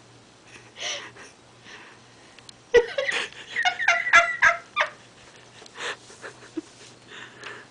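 Overweight dog snoring in its sleep. Soft breaths come first, then about three seconds in a louder run of quick, pitched snorts and clicks lasts about two seconds.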